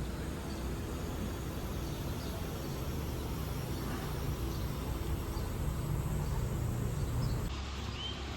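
Steady outdoor background noise dominated by a low rumble, with a few faint chirps; the background changes abruptly near the end.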